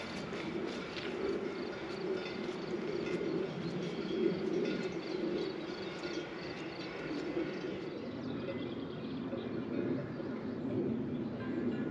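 Birds calling, with a low, repeated cooing.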